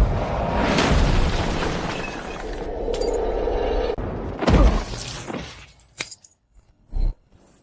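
Magic-battle sound effects: a rumbling blast dying away, a sudden crash about four and a half seconds in, then a couple of short thuds as it fades out.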